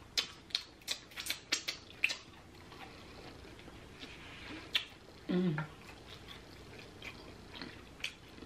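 Close mouth sounds of a person eating seafood boil: a quick run of wet smacks and clicks from chewing and lip-smacking in the first two seconds, then scattered smacks. A short hum about five seconds in.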